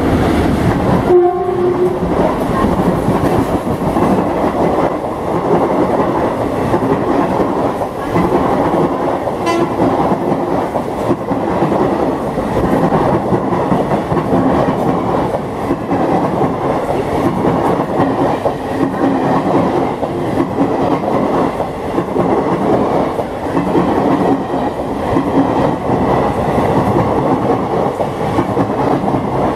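Express train hauled by an electric locomotive passing through the station at speed: a short horn blast about a second in, then the steady rumbling roar and clickety-clack of the long rake of coaches rushing past.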